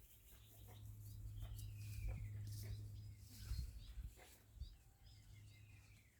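Wild birds calling: several downward-sliding whistled calls and short high chirps, over a steady low hum and a few soft clicks.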